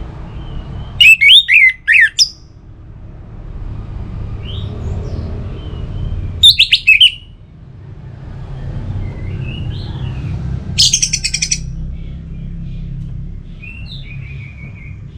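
Orange-headed thrush singing three loud, short phrases of about a second each, quick fluttering whistles with pitch sweeps. Fainter calls come between them over a steady low background rumble.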